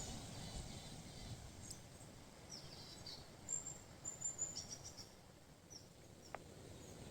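Small birds chirping in short, high notes over a faint steady background hush, with one sharp click near the end.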